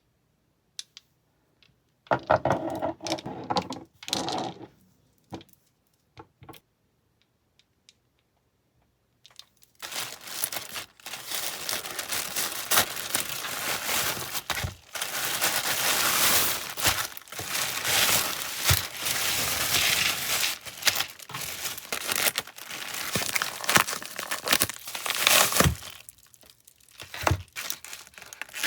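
Packaging being crinkled and torn open by hand. A short burst comes about two seconds in, then a few small clicks. A long stretch of steady crinkling and tearing follows, pausing briefly near the end.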